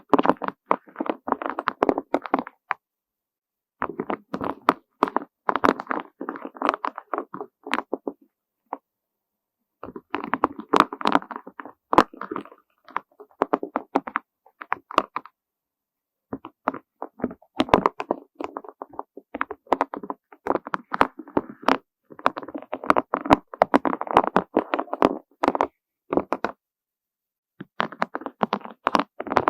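Butterfly- and flower-shaped beads clattering against one another in slow, gentle bursts of many small clicks. Each burst lasts a few seconds, with short pauses between.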